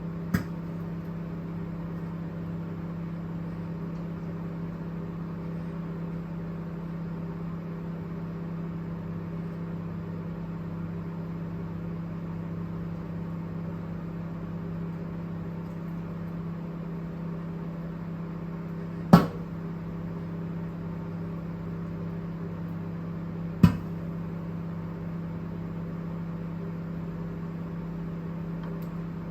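Microwave oven running with a steady low hum, broken three times by a sudden sharp crack: a small one at the start, the loudest about 19 seconds in, and another about four seconds after that. The cracks are the oven's intermittent abnormal noise, which does not happen every time it runs.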